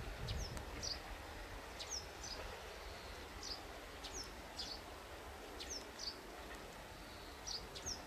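Small birds chirping: short, high calls that sweep downward, coming in pairs every second or so over faint outdoor hiss.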